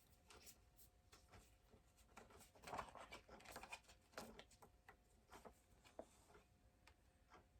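Near silence with faint handling noises: small plastic clicks and rustles of a penlight glowstick being handled, busiest about three to four seconds in.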